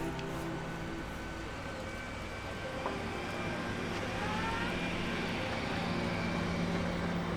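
Lion bus engine running with a steady hum. A few short rising chirps sound about four seconds in.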